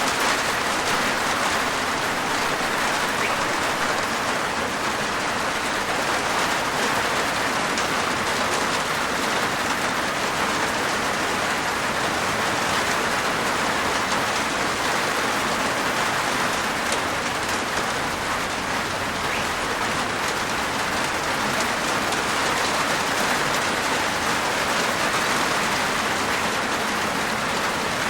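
Steady rain falling on a rooftop, an even patter without letup.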